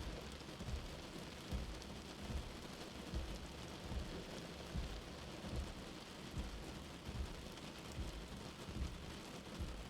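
Steady rain heard from indoors, with a soft, low heartbeat thumping evenly underneath at a little over one beat a second.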